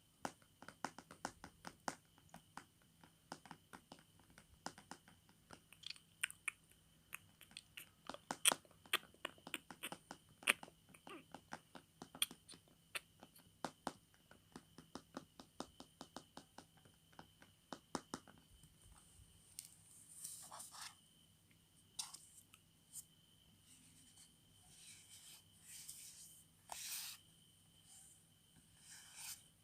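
ASMR tapping on a tablet: many quick, sharp fingernail clicks in an irregular run for about the first eighteen seconds, then softer, sparser swishing strokes on the tablet's surface.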